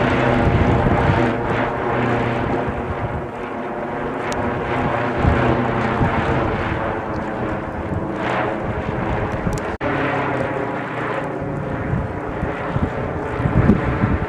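A kite flying in strong wind: gusts buffet the microphone over a steady, droning hum that holds one pitch throughout.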